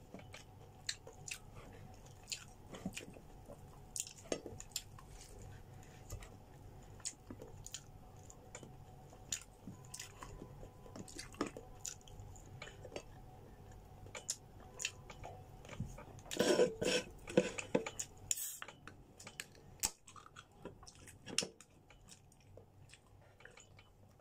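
A person chewing food close to the microphone: soft, wet, irregular clicks and crunches. About two-thirds of the way in there is a louder cluster of mouth sounds, followed by one sharp click.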